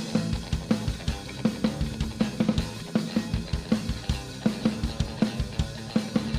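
Live rock band playing an instrumental passage between sung lines. A drum kit drives a fast, regular beat on bass drum, snare and cymbals over sustained instrument chords.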